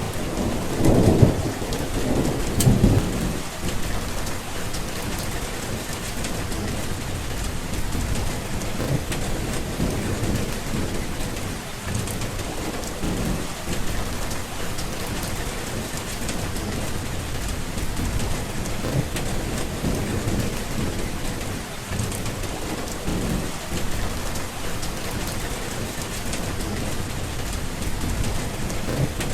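Steady rain with thunder: a rumble of thunder dies away over the first few seconds, then rain falls evenly with softer low rumbling beneath it.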